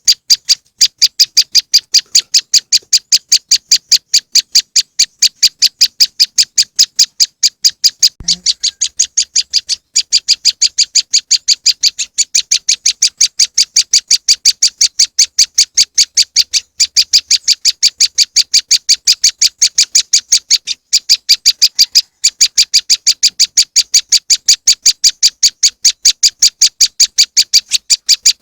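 Prenjak lumut lure call: high, sharp chip notes repeated rapidly and evenly, about four to five a second, without a break in the rhythm. About eight seconds in there is a brief click and the notes drop in level for a moment.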